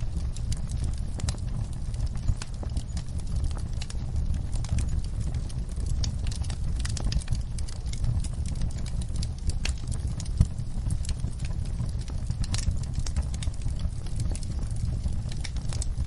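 Wood fire crackling, with irregular sharp pops and snaps over a steady low rumble of the flames; one louder pop about ten seconds in.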